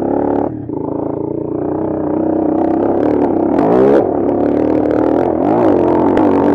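Bashan Brozz 250 dual-sport motorcycle's single-cylinder engine running under load on a dirt trail. The revs drop just after the start, then twice dip and climb quickly again with throttle and gear changes. Short bursts of clatter come from the bike over rough ground.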